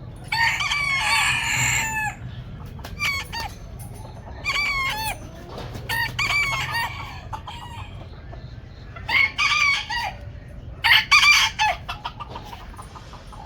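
Chickens calling: a long rooster crow about half a second in, followed by a string of shorter crows and clucks.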